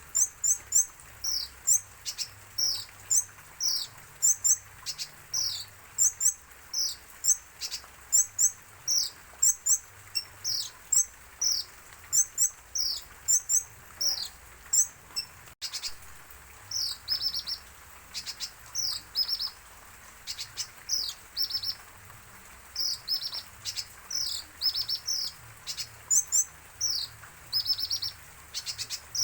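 Olive-backed sunbird (kolibri ninja) singing hard: a rapid, continuous run of high, short, downward-slurred chirps mixed with quick trills.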